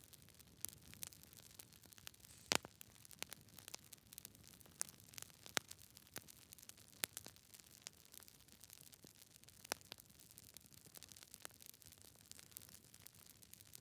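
Wood fire in a fireplace crackling: irregular sharp pops and snaps over a faint hiss, the loudest pop about two and a half seconds in.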